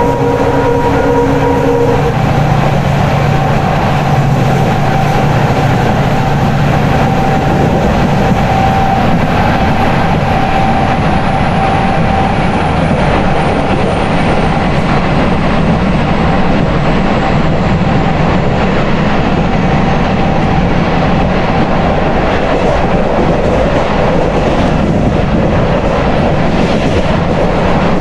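Train running through at high speed behind an EMD diesel locomotive. There is a loud, steady rush of wheels on rail with clickety-clack from the coaches passing. A stack of steady tones stops about two seconds in.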